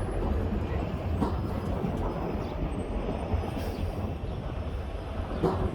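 Steady low rumble of a vehicle on the move, with a couple of light knocks.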